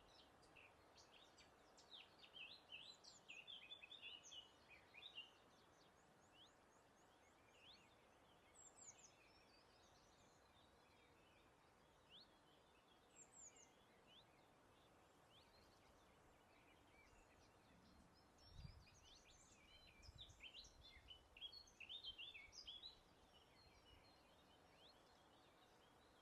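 Small birds singing: quick bursts of high chirps and trills, thickest about two seconds in and again around twenty seconds in, with scattered single calls between, over a faint steady hiss of breeze. A brief low rumble comes shortly before the second burst.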